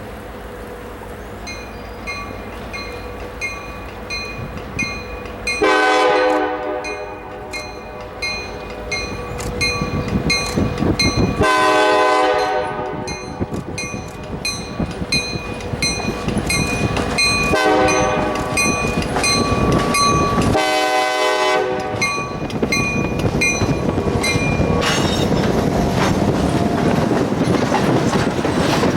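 Diesel freight locomotive blowing its multi-note air horn in the grade-crossing pattern, long, long, short, long, while a crossing bell rings steadily about twice a second. In the last few seconds the train draws close and the rumble and clickety-clack of the passing freight cars grows.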